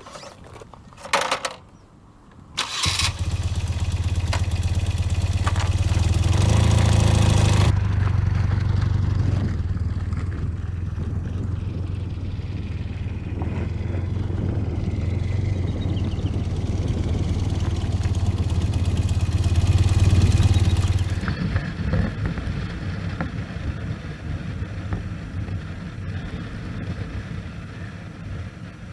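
Motorcycle engine starting about three seconds in and running steadily, then dropping to a quieter sound about 21 seconds in.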